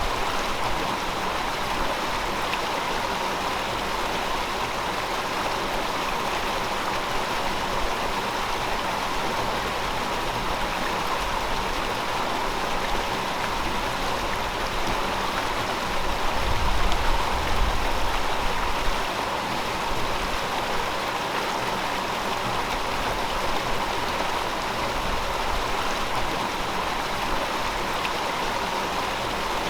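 River water flowing steadily, a continuous rushing, with a deeper, louder swell for a few seconds a little past the middle.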